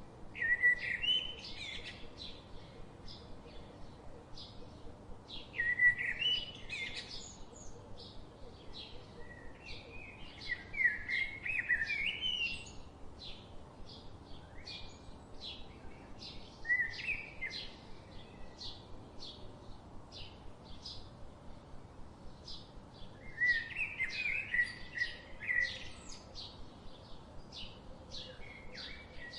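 Songbirds calling: a steady series of short, high chirps, a couple a second, with louder warbling song phrases breaking in every few seconds, five times in all.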